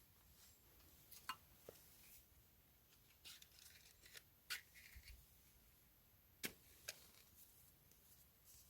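Near silence with a few faint, scattered clicks and taps of small objects being handled.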